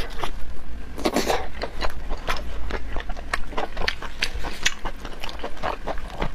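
Close-miked mouth eating sounds: wet chewing and smacking, with many short sticky clicks and a longer slurping burst about a second in.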